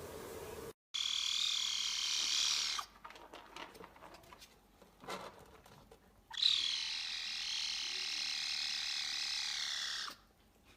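An animal's long, high-pitched buzzing trill, heard twice: once for about two seconds and again for about four seconds, with faint clicks in the gap between.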